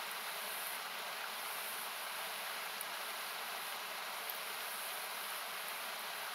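Steady rushing of a nearby river, heard as an even hiss-like noise, with a few faint crackles from a wood campfire.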